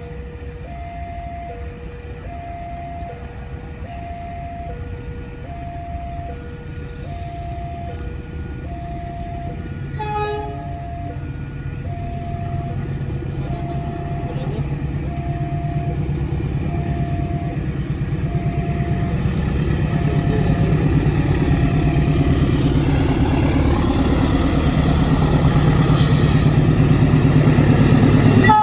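Level-crossing warning signal sounding two alternating tones, high then low, about once a second, while the low rumble of an approaching train grows steadily louder. A short horn toot comes about ten seconds in, and the alarm tones fade under the train noise in the last few seconds.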